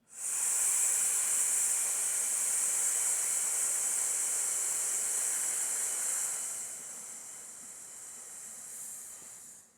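A man's long, slow 'sss' hiss breathed out through the teeth: the lung sound of the Taoist six healing sounds. It holds steady for about six seconds, then grows weaker until the breath runs out.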